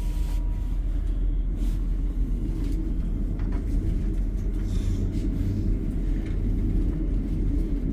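Steady low rumble inside a passenger train carriage.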